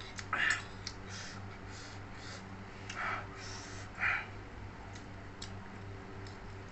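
Close-up mouth sounds of a person eating jengkol balado: soft wet chewing and smacking noises and a few small clicks, the loudest about half a second, three seconds and four seconds in, over a steady low hum.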